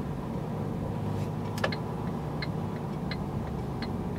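Truck engine running steadily, heard inside the cab. About a second and a half in, a click sets off the turn-signal indicator, which ticks evenly about every 0.7 seconds.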